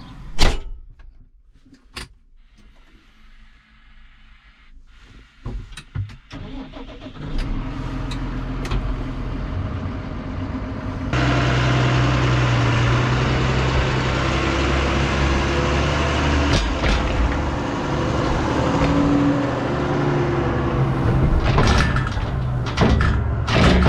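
A few sharp knocks, then a farm machine's engine starts and runs, getting noticeably louder and higher about halfway through and staying at that level.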